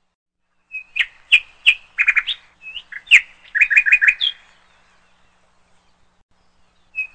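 A bird singing a quick phrase of high chirps and short trills lasting about three seconds, with a second similar phrase starting near the end.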